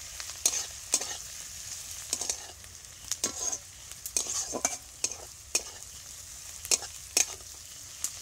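Sliced onions and whole spices frying in hot oil in a kadai with a steady sizzle, while a spatula stirs and scrapes them around the pan in uneven strokes about every half second.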